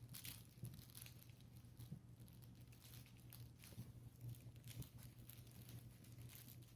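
Faint rustling and small scattered clicks of puppies tugging and pawing at a skirt's fabric, over a low steady hum.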